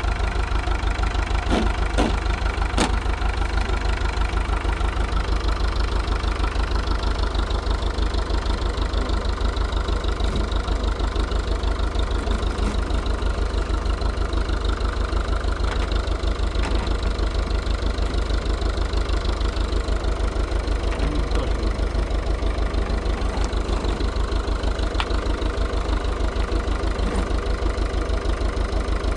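An engine running steadily at idle, a low, even throb. A few sharp clicks sound about two seconds in.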